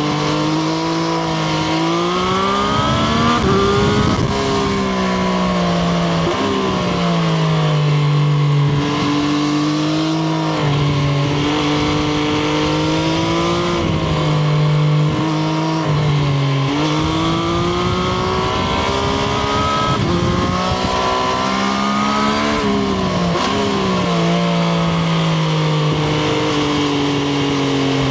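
Triumph Street Triple RS's inline three-cylinder engine under way, its note climbing and falling again and again as the bike accelerates, shifts and slows, with noise from the ride underneath.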